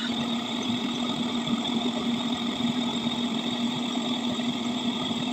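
A motor running steadily, with a constant low hum and a steady high whine.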